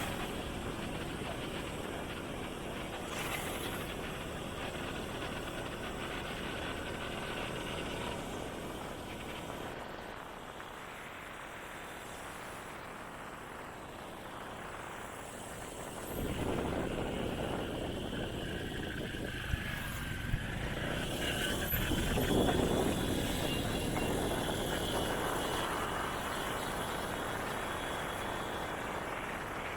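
Motorcycle on the move along a road: engine and road noise, growing louder a little past halfway through, with two short clicks soon after.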